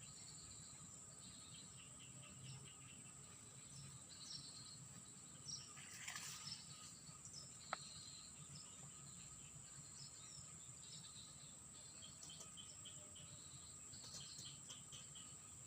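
Faint outdoor ambience: a steady high-pitched insect drone with repeated short chirping calls and trills throughout. A brief rustle about six seconds in and a single sharp click shortly after.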